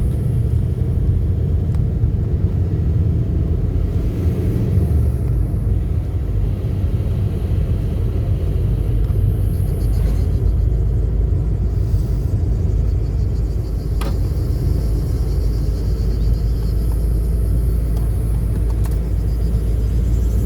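Car driving along a road: a steady low rumble of engine and tyres, with one brief click about two-thirds of the way through.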